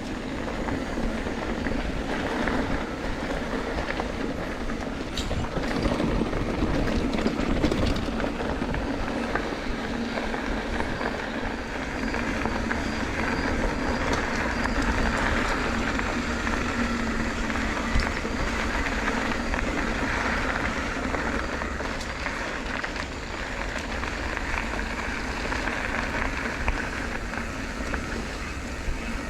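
Steady rumble of wind and road noise while riding a bicycle, with a few faint clicks.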